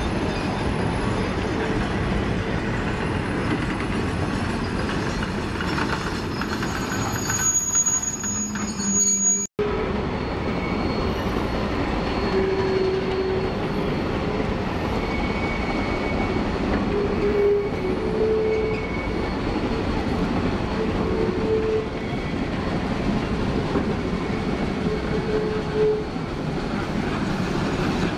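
Train of passenger cars rolling slowly past on the rails, pushed by a Shay geared steam locomotive, with a continuous rumble and clacking wheels. Flanges give short, high squeals now and then. The sound cuts out for an instant about nine seconds in.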